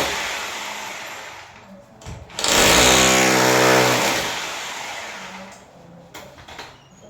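An electric motor winding down, then switched on again about two and a half seconds in: it runs loudly for about a second and a half with a steady hum and hiss, and is cut off to wind down over the next two seconds.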